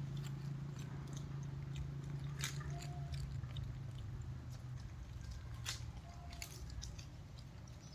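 Monkeys eating at close range: faint chewing and scattered sharp clicks over a steady low hum.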